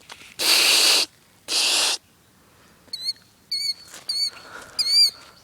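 Two loud hissing bursts, each about half a second long, then a bird guarding its eggs gives four short, high, wavering alarm calls, the last the loudest.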